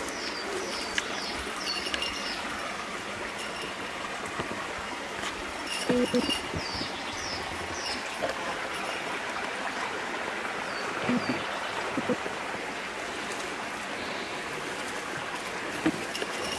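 Small birds chirping in short repeated calls over a steady outdoor hiss, with a few brief low sounds about six, eleven and sixteen seconds in.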